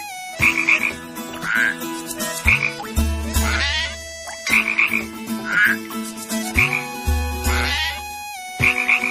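Frog croaking call repeating in a regular cycle about every two seconds, short high croaks followed by rasping sweeps, over steady humming tones.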